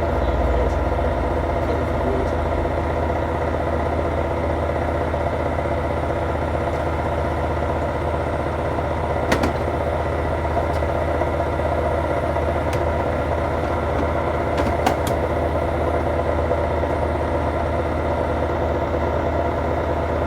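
Hoover inverter washing machine spinning at steady high speed near the end of its cycle: an even whine and hum from the motor and drum, which the owners joke has noisy bearings. Two short clicks come about nine and fifteen seconds in.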